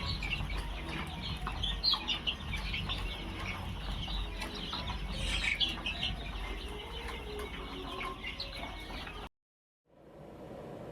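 A flock of desi chickens and chicks calling, many short clucks and cheeps overlapping. The calls cut off abruptly about nine seconds in, and a faint steady noise follows.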